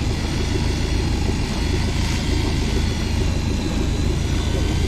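A boat engine running steadily, a continuous low rumble with no change in pace.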